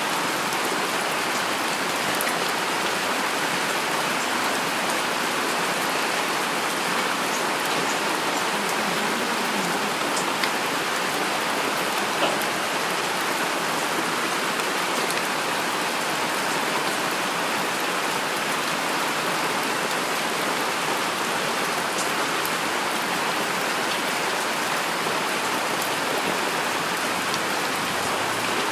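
Heavy rain falling steadily on a surface: an even hiss with a few single drops ticking through it.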